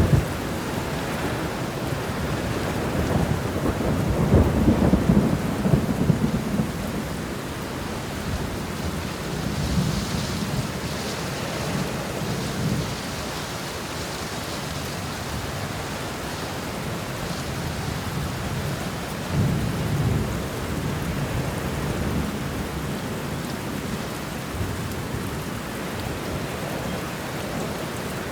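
Steady rain with rolling thunder: deep rumbles swell up a few seconds in, the loudest, then again around ten seconds and twenty seconds in, over the constant hiss of the rain.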